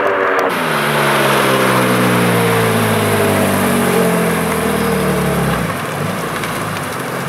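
A performance car's engine, with the revs falling off after a hard acceleration run. Its note drops sharply about half a second in, then slides steadily lower for about five seconds before fading to a low hum.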